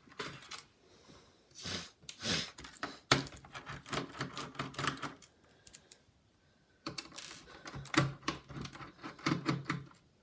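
Rapid clicking and rattling from a precision screwdriver and handling of the laptop's plastic casing while screws are worked out of the display hinge covers, in several bursts with a short lull a little after halfway.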